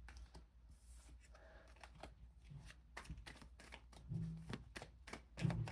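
Tarot cards being shuffled by hand: an uneven run of soft, quick card flicks and taps.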